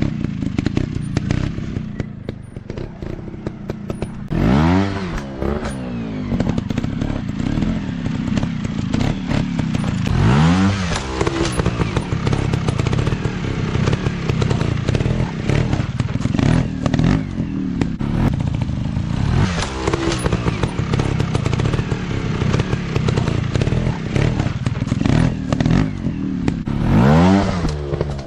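Dirt bike engine running and revving up sharply several times, each a quick rising then falling blip, with clattering and knocks throughout.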